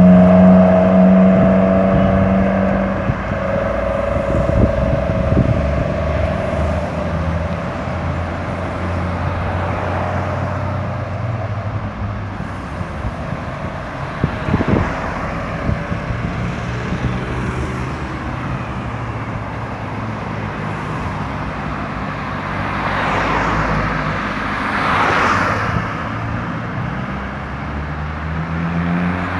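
Road traffic passing: a heavy engine runs close by at the start and fades over the first few seconds, then steady traffic noise with more vehicles going past later on.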